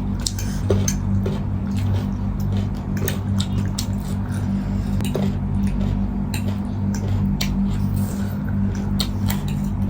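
People eating at a table: scattered clicks of cutlery on plates and wet chewing sounds, over a steady low hum.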